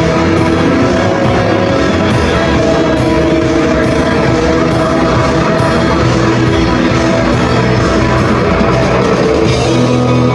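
Live rock band playing loud, with guitars and a drum kit, cymbals struck on a steady beat about twice a second; near the end the beat drops out and a held chord rings on.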